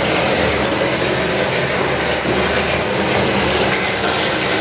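Hot water running steadily from a tap into a bathtub as a bubble bath fills.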